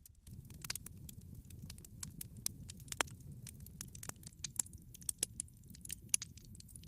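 Wood fire crackling in a fireplace: irregular sharp pops and snaps from burning logs over a soft low rumble of flames.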